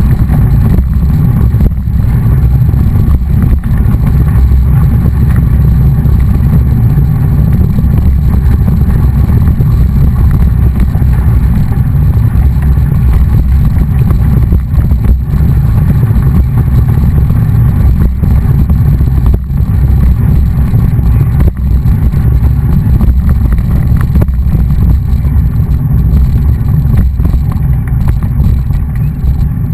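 Loud, steady low rumble of wind buffeting the microphone of a camera riding along on a moving mountain bike.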